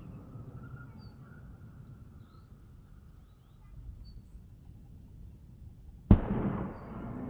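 Low outdoor rumble, like wind on the microphone, with a few faint high bird-like chirps. About six seconds in there is a sudden loud thump, followed by a burst of rushing noise that dies down over about a second.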